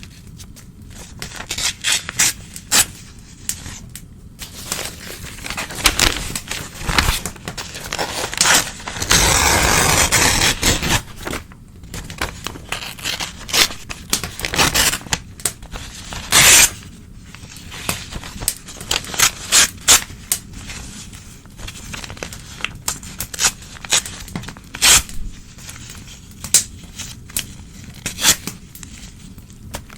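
Old newspaper being torn by hand, in repeated short rips and crackles, with one longer continuous tear near the middle.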